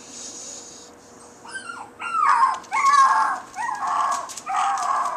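Recorded dog barks and yelps played through a phone's speaker: about five in quick succession, starting about a second and a half in and growing louder.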